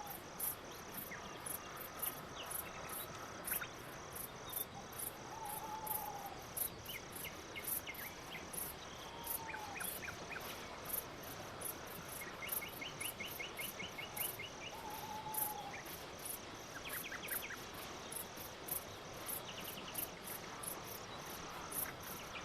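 Crickets chirping at night in a steady, high-pitched pulse, about three chirps a second. A short falling call sounds about four times, and brief rapid tick trills come and go.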